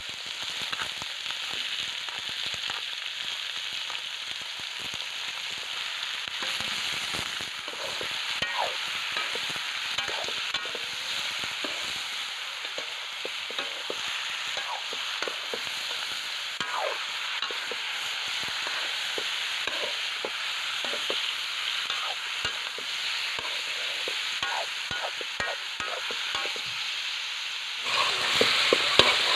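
Raw chicken pieces sizzling in hot oil in a wok, sautéed with ginger, onion, garlic and tomato, while a spatula stirs and scrapes them against the pan. The sizzle gets louder near the end.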